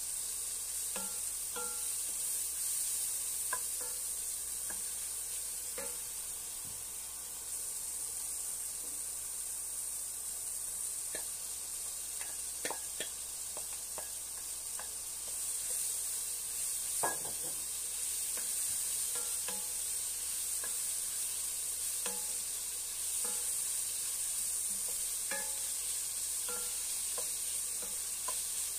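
Sliced mushrooms and corned beef sizzling in an enamelled pan, stirred with a wooden spoon that knocks against the pan now and then, with one sharper knock about seventeen seconds in.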